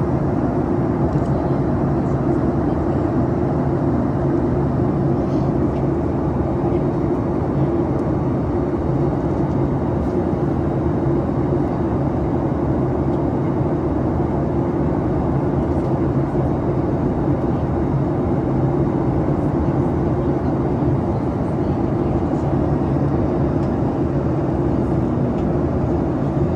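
Steady cabin noise of a Boeing 737 MAX airliner: the constant drone of its engines and rushing air, with a low hum running through it.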